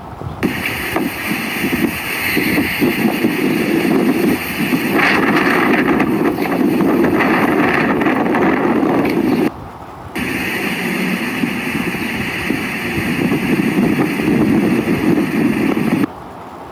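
Strong wind buffeting a phone's microphone: a loud, steady rushing roar that cuts out briefly twice, about halfway through and near the end.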